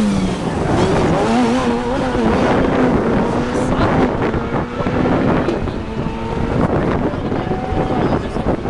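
Rally car engine running; its pitch drops at the start as the car goes by, then it runs on more steadily. Spectator voices and wind buffeting the microphone are mixed in.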